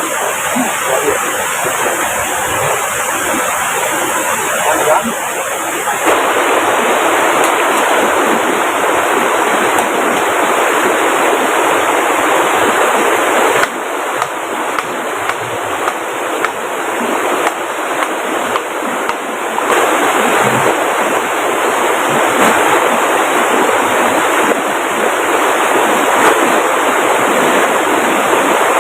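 River water rushing steadily as a loud, dense noise that grows louder about six seconds in and eases for a few seconds in the middle.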